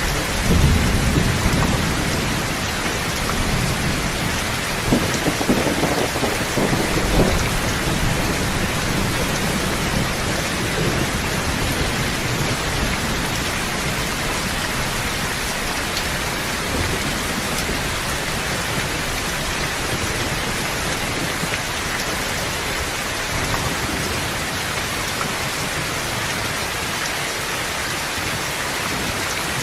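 Steady, heavy rain falling, with low rumbling of thunder in the first several seconds that then settles into an even downpour.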